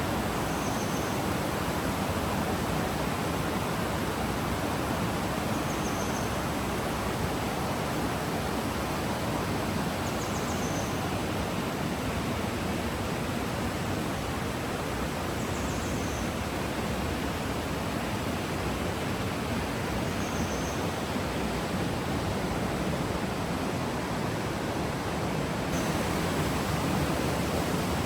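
Steady, even rush of the Zarı Çayı stream's flowing water. Faint short high chirps recur about every five seconds.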